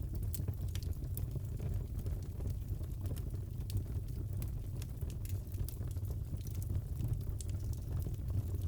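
Crackling fireplace: a steady low rumble of burning, with scattered sharp crackles and pops.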